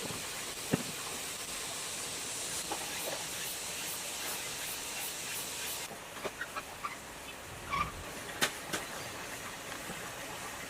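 A steady hiss that stops abruptly about six seconds in, followed by a few light clicks and knocks.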